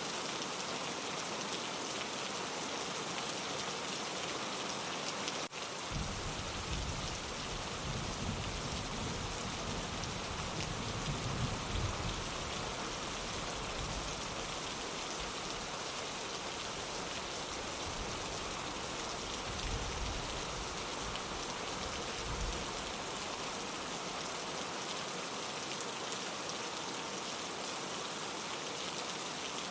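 Steady rain falling on a window. About six seconds in, a low rolling rumble of thunder starts, swells a few times and dies away in the last third.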